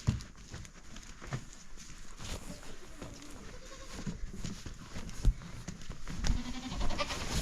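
Sheep bleating in short calls, among scattered knocks and thumps; the sharpest knock comes about five seconds in.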